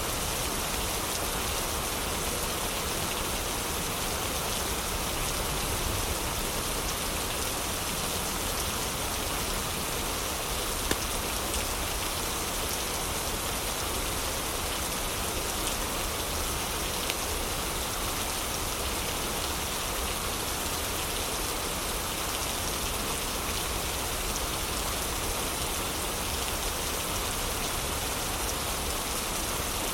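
Heavy rain falling steadily, a dense even hiss of drops, with a couple of brief sharp ticks partway through.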